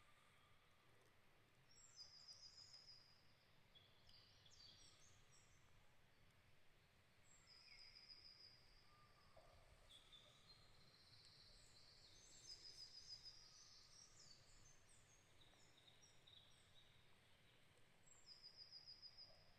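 Faint birdsong in a forest: one songbird repeats a short, high, rapid trill about every five or six seconds, with other birds' scattered chirps between, over a soft outdoor hiss.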